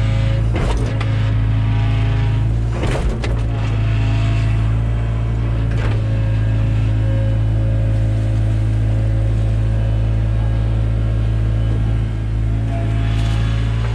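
Takeuchi TB175 excavator's diesel engine running at a steady speed, with a few short knocks and clatters: about a second in, near three seconds, near six and near the end.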